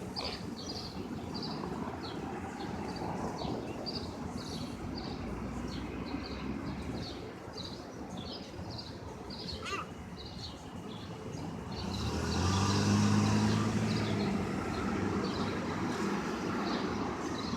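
City street traffic with a steady series of short, high chirps repeating about every two-thirds of a second. About twelve seconds in, a vehicle engine hums past, the loudest sound, and then fades.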